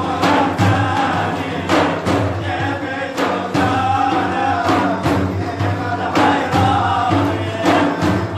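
Male voices singing a madih, an Islamic devotional praise song, over a held low drone, with sharp drum strikes every second or two.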